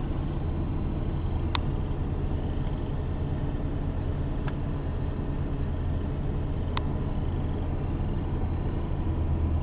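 Steady low hum of a car's engine and road noise heard from inside the vehicle, with two sharp clicks, one early and one near the two-thirds mark.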